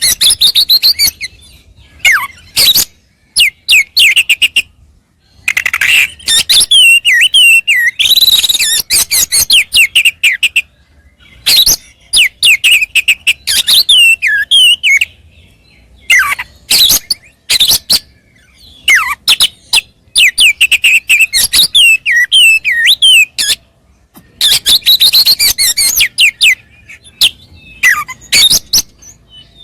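Oriental magpie-robin (kacer) singing loudly in quick, varied phrases of chips and slurred whistles, with short pauses between them. This is the full, aggressive song of a bird in fighting form, running through its repertoire of learned calls.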